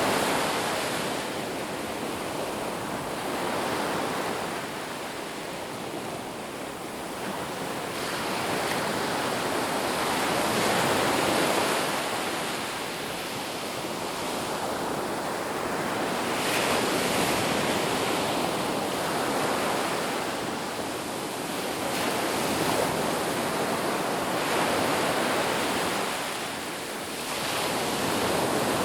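Ocean waves breaking on a beach, a continuous wash of surf that swells and eases every few seconds.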